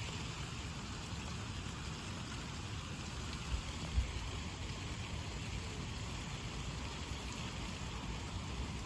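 Steady hiss of rain falling during a thunderstorm, with two brief low thumps about three and a half and four seconds in.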